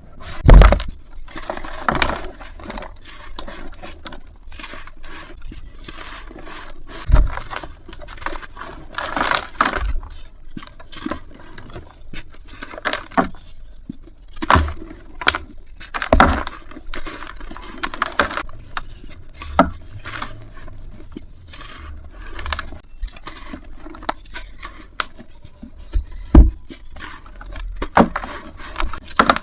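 Dry, brittle material being crushed and crumbling: an irregular run of sharp crunches, crackles and scrapes, a few much louder snaps among many small ones.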